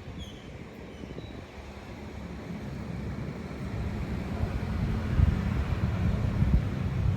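Wind blowing in low, rumbling gusts that grow louder from about three seconds in.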